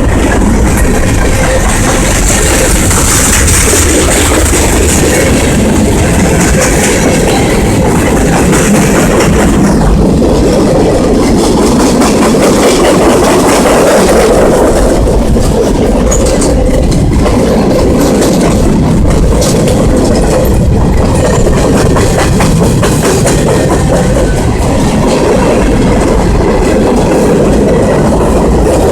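Canadian National freight train rolling past close by, a loud steady rumble of its cars with the wheels clicking over the rail joints.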